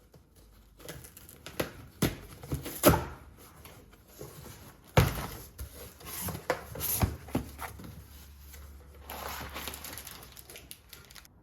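Irregular clicks, taps and rustling of small objects being handled, loudest about two to three seconds in and again about five seconds in.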